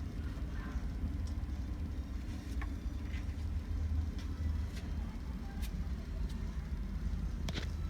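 Motorbike running on the move: a steady low rumble with a few faint clicks.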